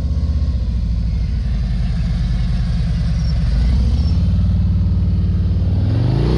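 Motorcycle engine idling close by with an even pulsing beat, its pitch edging up slightly about three and a half seconds in.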